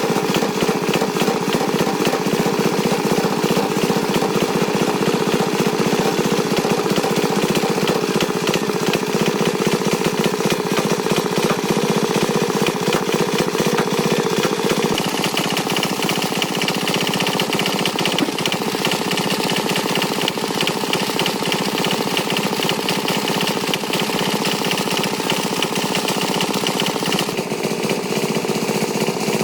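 Tractor engine running steadily with a fast, even chugging; its note shifts slightly about halfway through.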